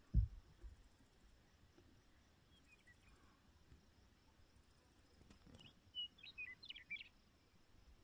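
A small bird calls a quick run of short chirps near the end, over faint outdoor background noise, with a single low thump right at the start.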